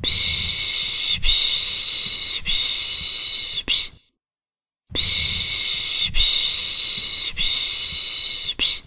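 A person shushing rhythmically, 'shh, shh, shh', the Turkish 'piş piş' sound used to lull a baby: each run holds three long shushes and a short one, lasts about four seconds, and is followed by about a second's pause. Two runs are heard.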